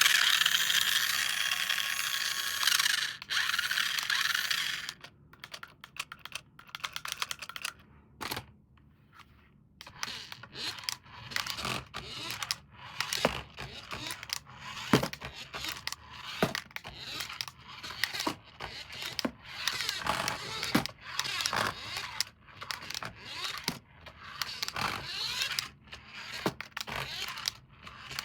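A small toy vehicle's motor and gears whirring steadily, cutting off about five seconds in. Then comes a long run of irregular clicks, taps and scrapes of a plastic remote-control toy and its packaging being handled.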